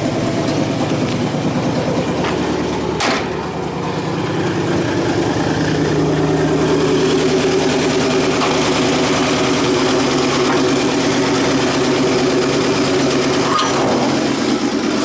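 The original Pontiac V8 of a 1956 GMC half-ton pickup idles steadily just after starting. There is a single click about three seconds in.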